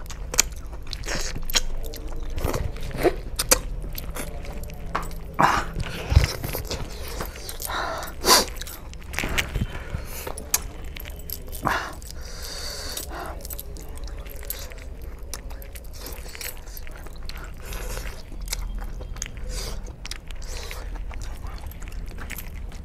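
Close mouth sounds of a man eating chicken curry and rice with his fingers: irregular wet chewing, biting and lip-smacking clicks.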